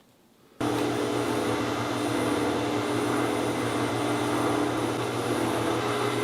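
A workshop power tool running steadily, starting abruptly about half a second in.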